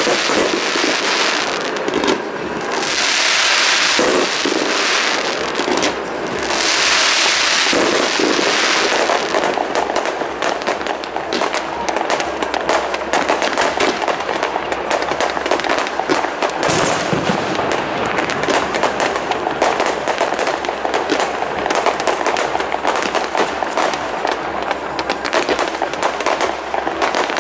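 Fireworks going off: several surges of dense hissing crackle in the first eight seconds or so, then a continuous fast crackling and popping to the end.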